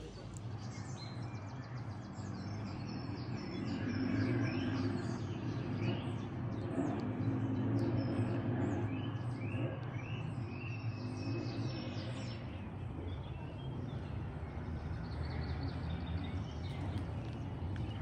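Small songbirds chirping and singing in quick repeated notes over a steady low rumble that swells in the middle.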